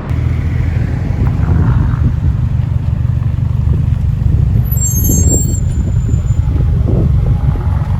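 Steady low rumble of a car driving, engine and road noise, with a brief high-pitched whine about five seconds in.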